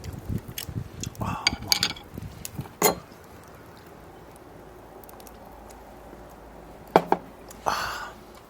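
Dishes and utensils being handled: scattered clinks and knocks in the first few seconds, then a quiet stretch and one sharp knock near the end.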